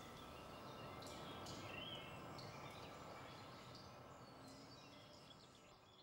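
Faint garden ambience: a steady low hiss with a few brief, high bird chirps and one short warbling call about a second and a half in, fading slowly in the second half.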